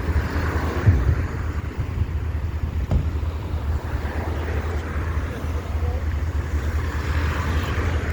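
Steady low rumble of vehicle engines and street traffic, with a short thump about a second in and another about three seconds in.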